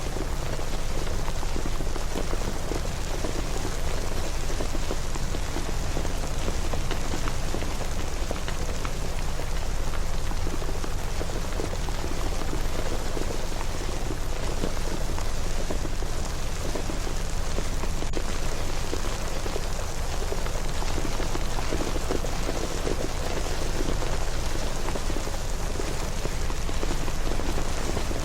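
Steady rain falling, a dense even hiss of countless small drop impacts that holds level throughout.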